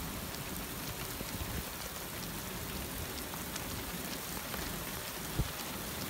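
Steady rain falling on the hail-covered road and vehicle, an even hiss with scattered light ticks of drops. One dull thump about five seconds in.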